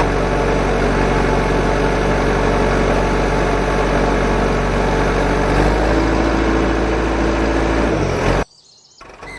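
A motor running steadily with a low hum; a higher steady tone joins about six seconds in, and the sound cuts off abruptly near the end.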